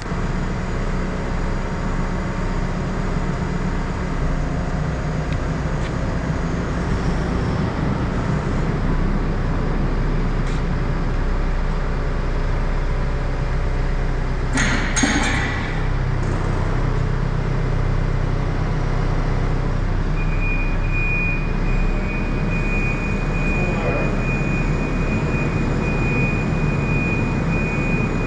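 Tractor diesel engine running steadily, with a single knock about fifteen seconds in and a thin high steady tone that comes in about twenty seconds in and holds.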